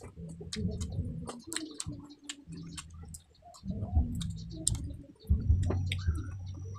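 Close-miked mukbang eating sounds: many sharp wet clicks and smacks of chewing pork ribs and rice, then drinking from a glass near the end. A thin steady high tone comes in about five and a half seconds in.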